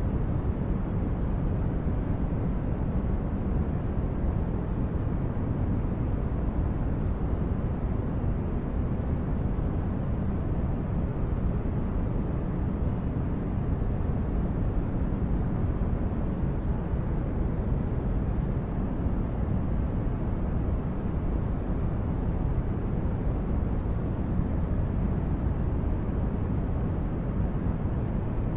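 Sci-fi starship interior ambience: a steady, deep rumbling brown-noise hum, even and unchanging.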